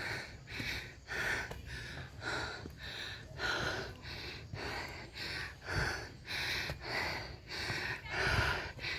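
A person panting hard, about two quick breaths a second, out of breath from climbing a steep uphill trail.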